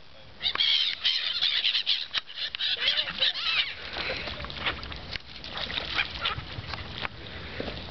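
A flock of seagulls calling over one another, a dense burst of high squawks in the first few seconds, then scattered calls among sharp ticks.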